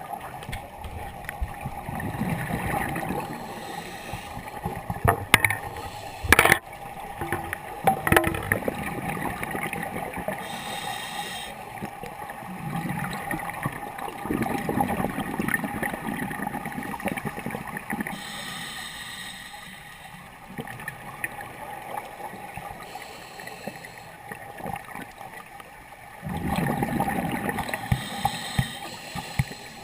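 Underwater sound of a scuba diver's regulator: exhaled bubbles gurgle in swells about every twelve seconds. A few sharp clicks come between five and eight seconds in, over a faint steady tone.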